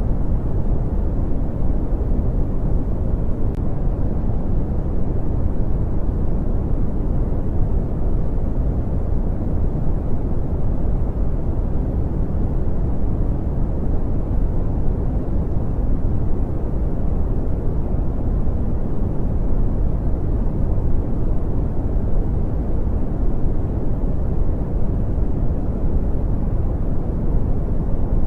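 Brown noise: a steady, even, deep rumbling hiss with most of its energy in the low end, fading off in the highs, unchanging throughout.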